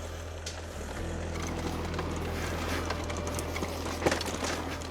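Electric mountain bike rolling over a rough track: tyre noise with rattling clicks and knocks from the bike, one sharper knock about four seconds in, over a steady low hum.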